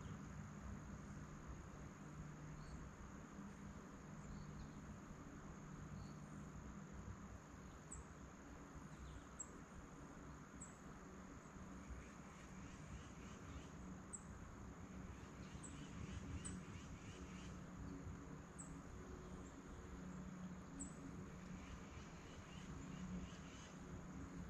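Faint, steady high-pitched trill of crickets, with a few very short high chirps scattered through.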